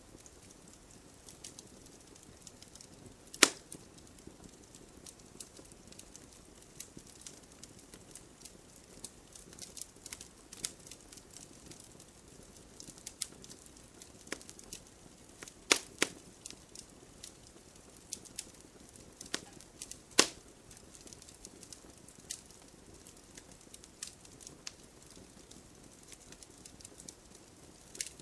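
Wood fire crackling: many small sharp snaps over a soft low hiss, with a few louder pops, one about three and a half seconds in, a pair near sixteen seconds and another near twenty.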